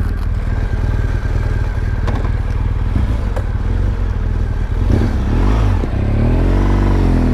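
BMW R1200GS flat-twin boxer engine running under way. In the second half its revs climb and fall again twice.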